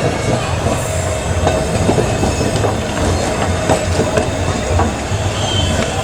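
Electric heritage tram running along the track: a steady low rumble and a held tone, with irregular clicks and knocks from the wheels on the rails.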